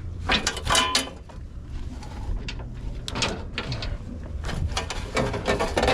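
Handling noises from unhooking and stowing tarp bungee cords: a string of clanks and rattles, loudest just under a second in and again over the last second, over a steady low rumble.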